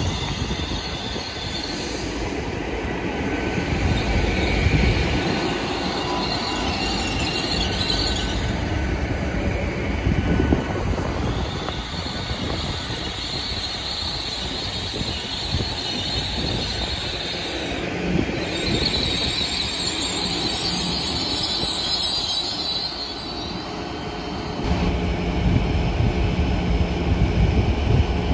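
A GWR Class 800 bi-mode train moving slowly alongside the platform, its wheels squealing in long high-pitched spells over a rail rumble. A steady low hum grows louder near the end.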